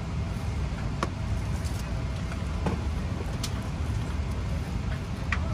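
Steady low hum of a parked airliner's cabin air conditioning, with a few light clicks, such as a seatback tray table being unfolded and extended.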